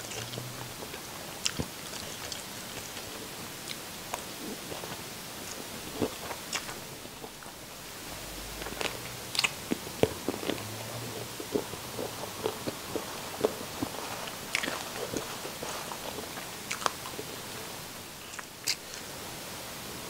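Close-miked mouth sounds of a person eating noodles: chewing and biting, with short wet smacks and clicks at irregular intervals.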